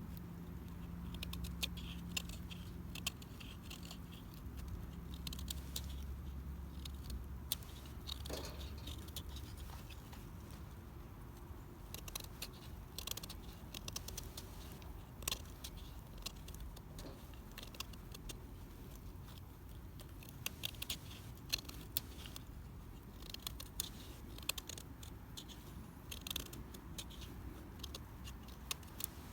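Irregular small sharp clicks and crackles, growing busier partway through, over a low background hum that fades out about seven seconds in.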